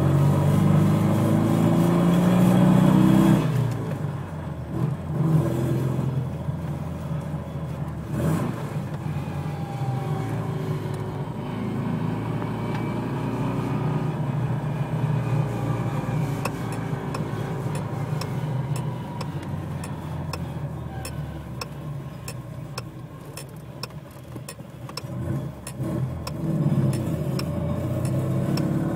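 Panhard PL17's air-cooled flat-twin engine running on a freshly rebuilt first drive. It revs hard for the first few seconds, then runs lighter with shifting pitch and picks up again near the end. A metallic rattle comes from the loose top cover of the air filter.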